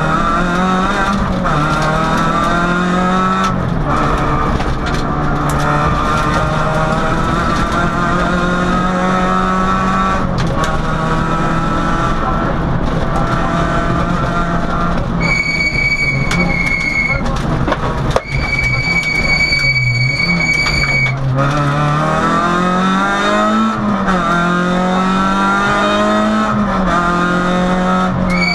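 Peugeot 106 rally car's engine at full throttle, heard from inside the cabin, the revs climbing repeatedly through the gears and dropping at each shift or lift. A high steady whistle-like tone sounds several times in the second half.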